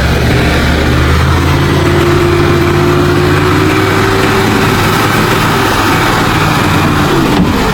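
Heavy earthmoving machine's diesel engine running steadily, with a faint whine partway through.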